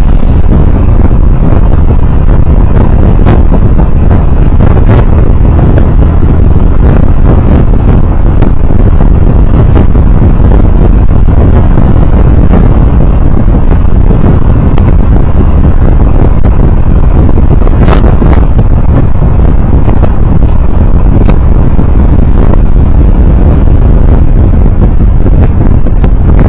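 Loud, steady rumble of road and wind noise from a moving vehicle, with a few brief clicks.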